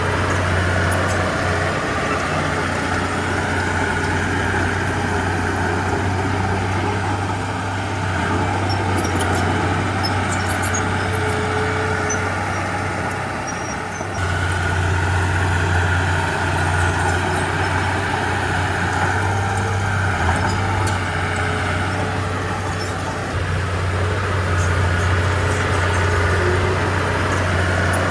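Crawler bulldozer's heavy diesel engine running steadily under load, easing off briefly a few times and then pulling again.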